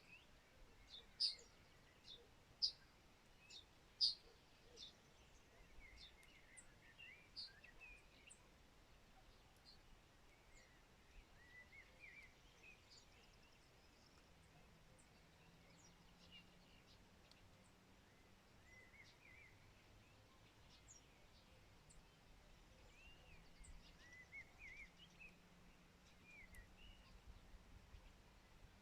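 Songbirds calling faintly: a run of sharp, high chirps about every second and a half in the first few seconds, then quieter twittering that carries on throughout.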